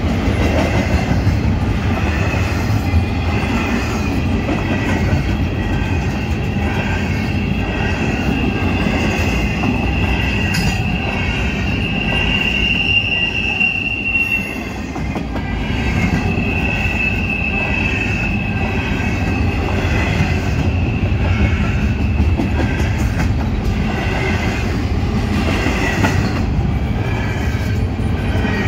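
CSX intermodal freight train's well cars rolling past at speed: a steady rumble and clatter of steel wheels on the rails. A high, steady wheel squeal comes in about ten seconds in, breaks off, and returns for a few seconds.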